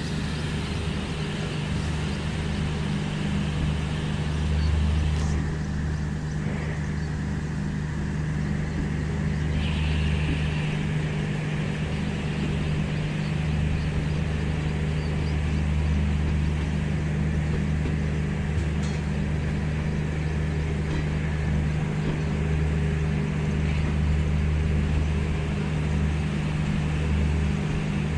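Garib Rath Express passenger coach running as the train pulls out of a station, heard from its open door or window: a steady low rumble of wheels on track with a constant hum.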